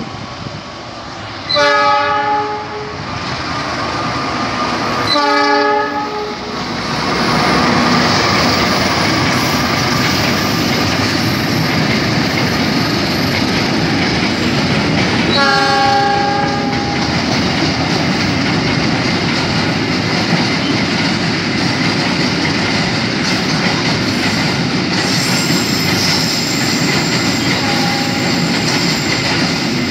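CC206 diesel locomotive sounding its horn in three blasts, about two, five and fifteen seconds in, with a short faint toot near the end. Under the horn, the train's rolling noise builds as it nears, then holds steady while tank and flat wagons clatter past over the rail joints.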